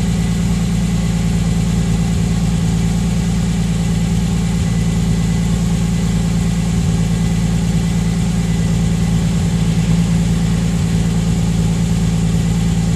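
BMW E46 M3's S54 straight-six idling steadily through a freshly fitted Scorpion rear muffler, with Supersprint headers, high-flow cats and the resonator deleted. The exhaust note holds an even pitch with no revs.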